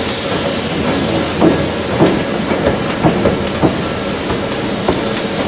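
Tobu 300 series electric train rolling slowly into a station, a steady running noise with irregular wheel knocks over the rail joints, about two a second.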